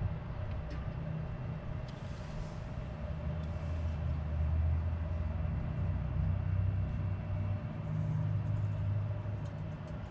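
Harley-Davidson Sportster 1200's air-cooled V-twin running through a Cobra El Diablo 2-into-1 exhaust: a steady low rumble that grows louder for a few seconds in the middle, then eases back.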